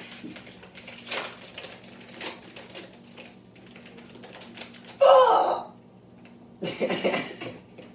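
Irregular crackling clicks of snack food and its packaging being handled and eaten. About five seconds in there is a short, loud vocal noise, then another burst of crackling near the end.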